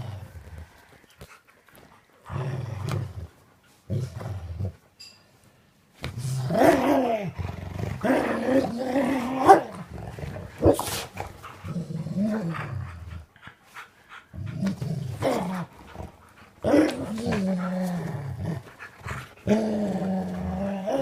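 Dog growling playfully while tugging on a rope, in repeated bouts with short pauses; the growls waver up and down in pitch.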